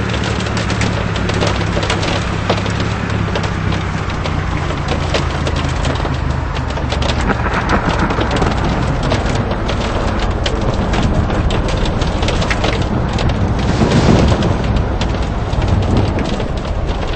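Heavy rain hitting a vehicle, a dense stream of sharp drop impacts over the steady low hum of the engine. A louder low rumble swells about fourteen seconds in.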